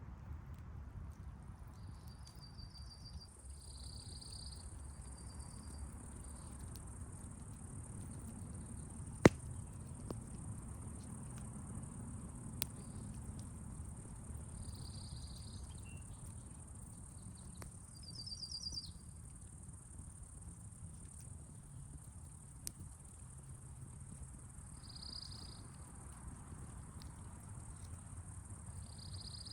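Crickets and other insects calling: a steady high trill with short pulsed chirps every few seconds, over a low rumble. A sharp click about nine seconds in is the loudest sound, and a few fainter clicks follow.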